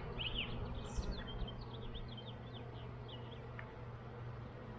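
Honeybees humming steadily around an open hive, with a bird chirping in quick repeated notes over it, mostly in the first three seconds.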